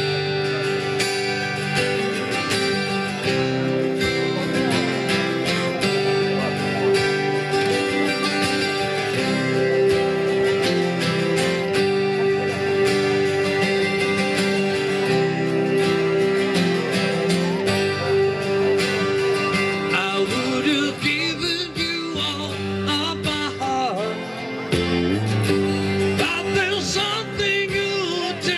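Live song on guitar with accompaniment, an instrumental passage, with a voice singing in from about two-thirds of the way through.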